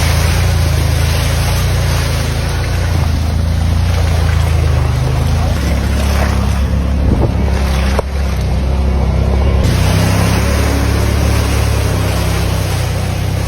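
Vehicle engine running steadily under heavy wind noise on the microphone.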